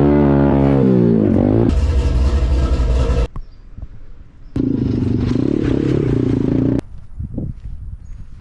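SSR 150cc dirt bike's single-cylinder four-stroke engine revving and running under load, in short segments that cut in and out abruptly. In the first couple of seconds the pitch climbs and falls with the throttle; later stretches hold a steadier pitch.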